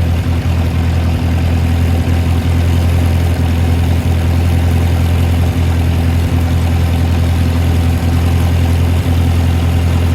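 Ford 620 tractor's four-cylinder gasoline engine running at a steady speed, driving the hydraulics that slowly raise the Sherman forklift mast on cold oil.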